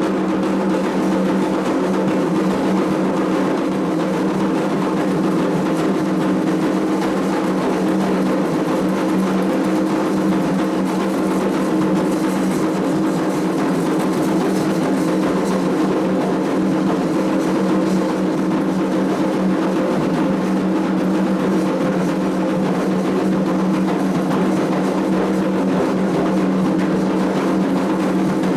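Candomblé ritual drumming on atabaque hand drums, playing a continuous dense rhythm without pause.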